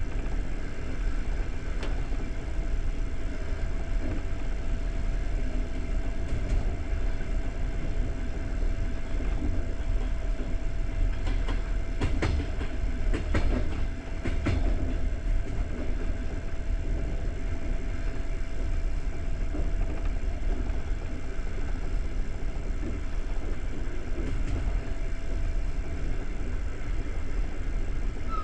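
Passenger train carriage running at speed, a steady low rumble of wheels on track heard from inside the coach, with a short run of clicks about halfway through.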